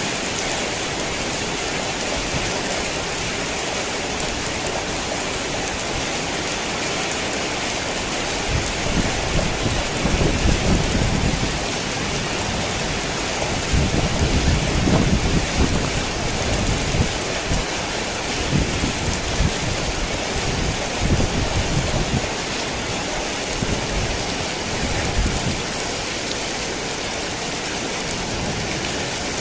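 Heavy rain falling steadily, with low thunder rumbling in from about a third of the way in, loudest around the middle, and dying away near the end.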